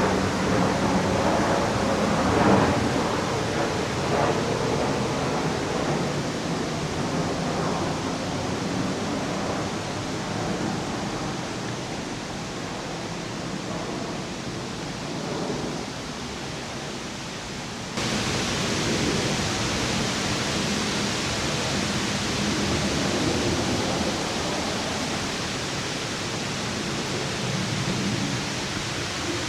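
Waterfall: cascading water rushing steadily. About two-thirds of the way through it changes abruptly, turning brighter and hissier.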